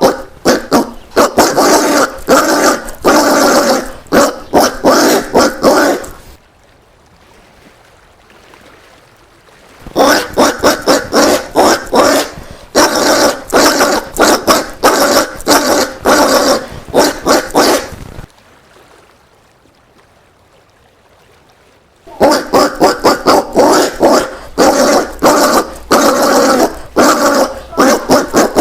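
Collared peccary giving rapid series of short, gruff calls, about three to four a second. The calls come in three bouts of about six seconds each, separated by pauses of a few seconds.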